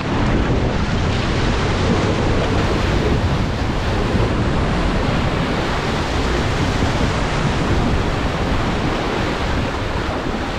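Water rushing and churning steadily as a four-wheel drive fords a river, with a low rumble underneath.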